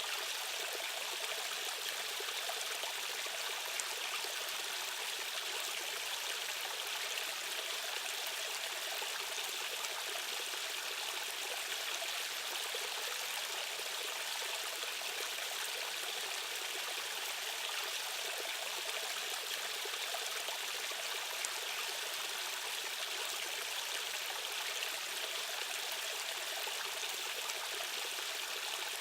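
Rushing water of a stream current, a steady even rush with no breaks.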